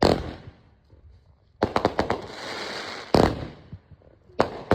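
Fireworks going off: a sharp bang, then a quick cluster of pops that runs into a stretch of crackling hiss, another loud bang, and two more bangs close together near the end.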